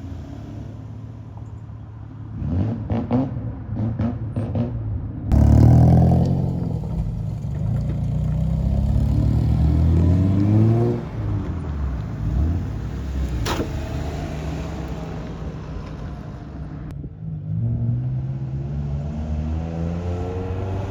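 Classic Japanese cars driving out one after another, their engines revving with the pitch rising as each pulls away. The loudest car comes in suddenly about five seconds in, and another builds up near the end.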